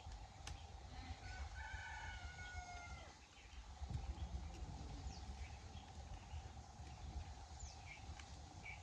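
A rooster crowing once, a single drawn-out crow of about two seconds that dips at its end, heard faintly over a steady background drone.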